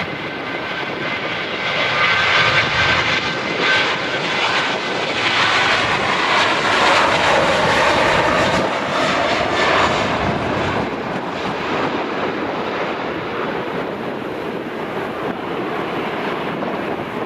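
Airliner engines passing close, with a high whine early on and a tone that drops in pitch around the middle. The noise is loudest over the first half, then eases off.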